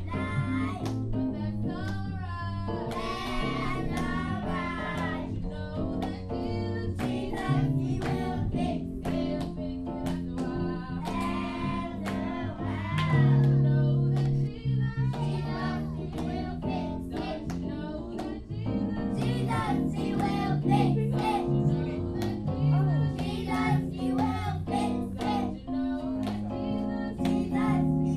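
Young voices singing a gospel song together over live band accompaniment, with sustained bass notes and a steady drum beat.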